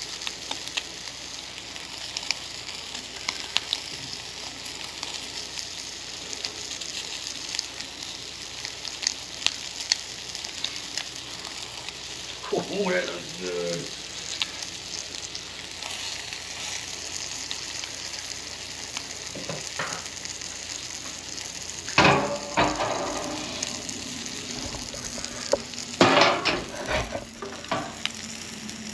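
Bacon and egg sizzling and crackling in a cast-iron skillet. Louder knocks and scrapes of a utensil against the pan come twice in the second half.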